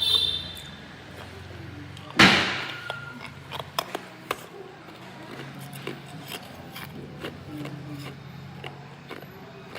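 Hard ice being bitten and chewed: one loud crack about two seconds in as the ice breaks, then irregular sharp crunches and snaps as the pieces are chewed.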